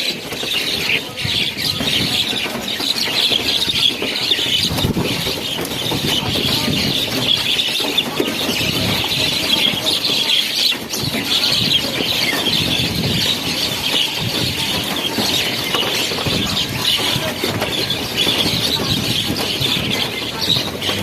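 A large flock of birds calling all at once, a dense, unbroken chatter of high chirps and squeals, over a low, uneven rumble.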